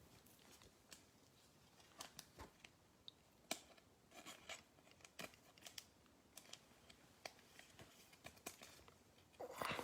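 Faint crinkling, rustling and scattered small clicks of trading-card packs and cards being handled.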